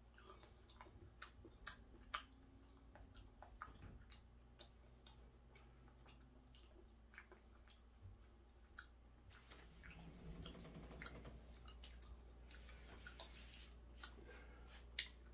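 Near silence with faint chewing: soft, irregular mouth clicks as food is chewed, and a faint low murmur about ten seconds in.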